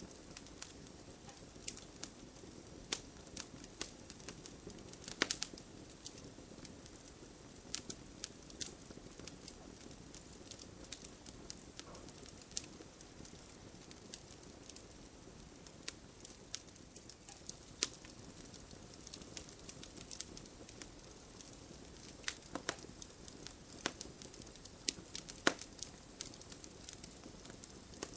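Wood fire crackling in a fireplace: irregular sharp snaps and pops, several a second, over a low steady hiss.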